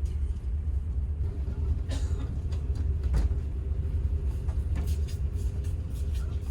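Steady low rumble of a high-speed ferry's engines and hull heard from inside the passenger cabin, with a faint steady hum and a few light knocks.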